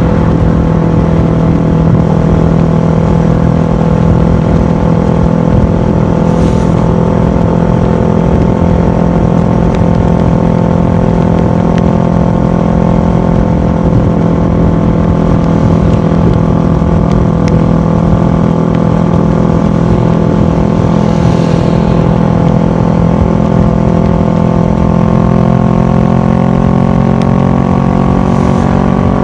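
Kawasaki ER-6f's parallel-twin engine running through a full Akrapovic exhaust at a steady cruise, picked up by a camera mounted on the bike. The engine pitch rises slightly near the end.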